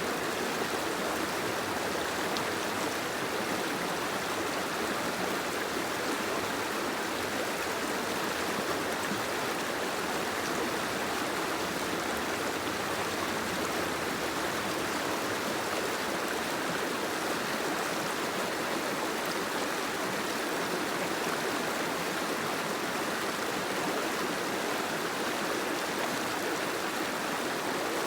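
Steady rushing water, an even hiss that does not change or break.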